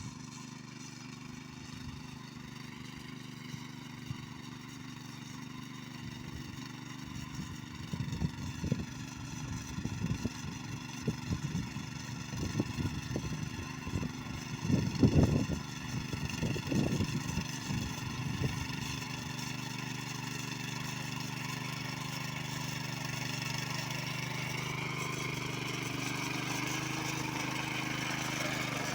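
Power weeder's small engine running steadily, with a run of irregular thumps in the middle stretch; the engine speed rises near the end.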